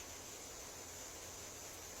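Faint natural ambience: a steady, high-pitched insect buzz over an even hiss.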